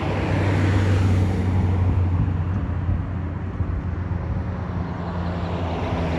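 A Ferrari engine running steadily at low revs as the car moves past, then fading into street noise about two seconds in.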